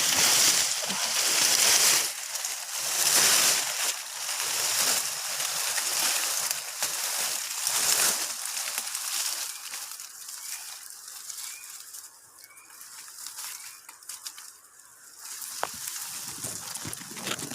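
Grass rustling in repeated loud swishes as it is pushed aside, dying down to faint rustling about ten seconds in.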